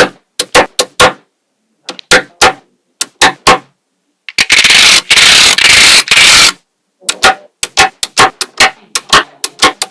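Small magnetic balls snapping together with sharp, ringing clicks, often in pairs. About four seconds in comes a loud noisy rush of about two seconds, and after it the clicks come quickly.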